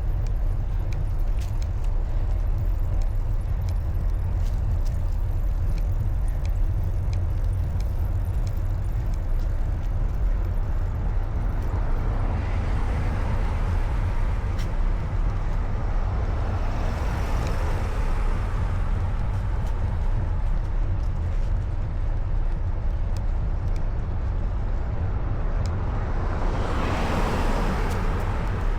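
Steady low wind rumble on the microphone of a moving bicycle, with road traffic going by: a vehicle swells past around the middle and another passes close near the end.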